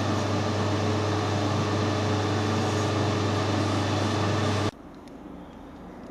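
A workshop machine's electric motor running steadily with a strong low hum and a hiss, cutting off suddenly near the end, leaving only faint background.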